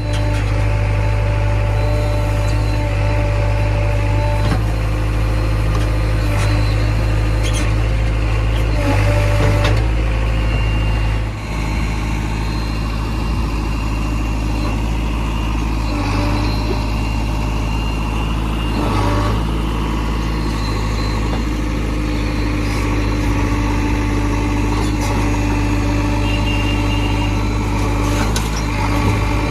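Diesel engine of heavy farm or construction machinery running steadily with a low drone, its pitch shifting slightly now and then.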